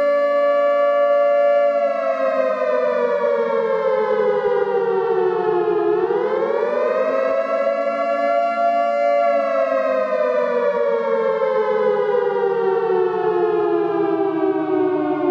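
Civil defense siren sounding a nuclear attack alarm: a wail of two notes together. It holds its pitch, slides down, swoops back up about six seconds in, holds briefly, then slides slowly down again.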